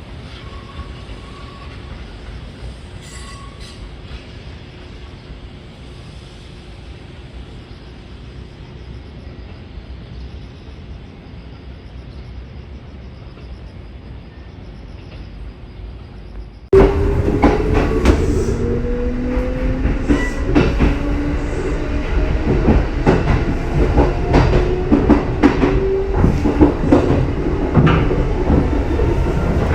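Kintetsu 2610-series and 1253-series electric train: a steady low rumble, then about halfway through it suddenly gets much louder. After that, motor whine rises slowly in pitch over sharp wheel clicks on rail joints as the train picks up speed.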